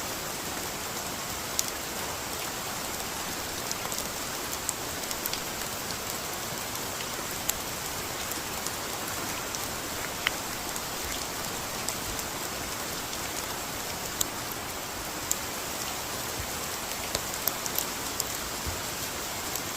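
Steady rain falling in a forest: an even hiss of rainfall with scattered sharp drip taps of single heavy drops landing close by.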